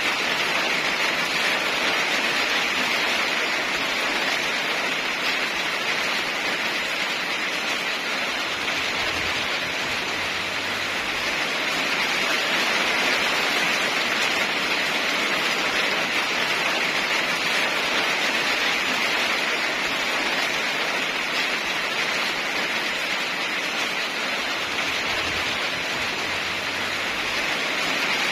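Steady rain falling: an even, unbroken hiss with no changes.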